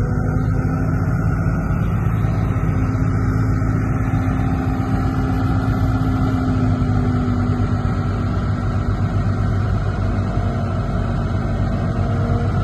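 Bulldozer's diesel engine running steadily, with a slowly wavering drone.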